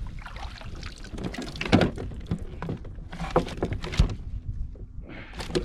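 Irregular knocks and thumps on a plastic fishing kayak's hull and gear, a few of them sharp and louder, as a small hooked pike is played and thrashes beside the boat.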